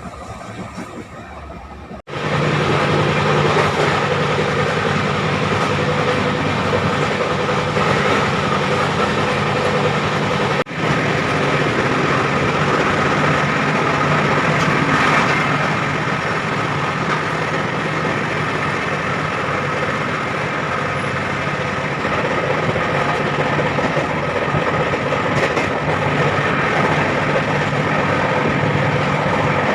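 Passenger train running: a steady rumble of wheels on the rails, with a low hum under it. It cuts in much louder about two seconds in and drops out briefly about ten seconds in.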